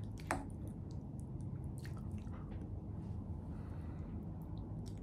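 Close-miked mouth sounds of a person chewing soft food: quiet, wet chewing with occasional smacks and clicks, the sharpest about a third of a second in, over a steady low hum.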